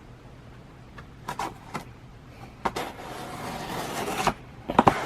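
Cardboard package being cut and torn open. A few sharp clicks and taps come first, then a scraping, ripping noise builds for about a second and a half and stops suddenly.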